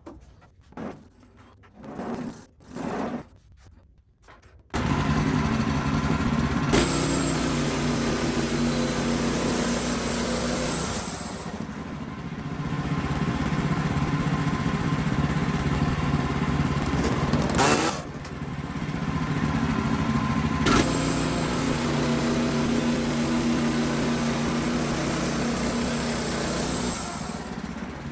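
A few short soft sounds, then about five seconds in a Wood-Mizer LX55 portable band sawmill cuts in abruptly, its engine running loud and steady as it saws through a poplar log, with brief dips in level a few times.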